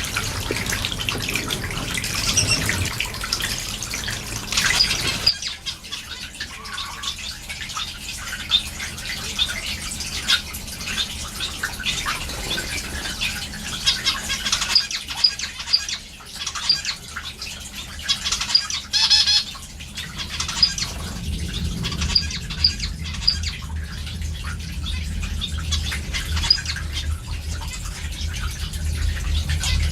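Caged small finches chirping and calling over and over, with many short high calls overlapping. A steady low noise runs underneath and grows louder near the end.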